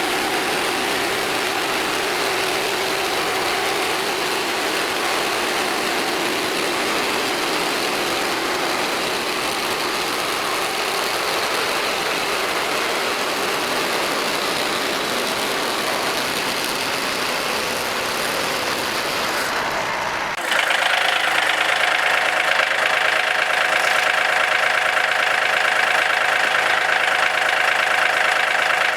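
Portable band sawmill's gasoline engine running steadily. About two-thirds of the way through, the sound changes abruptly to a clearer, steadier engine hum.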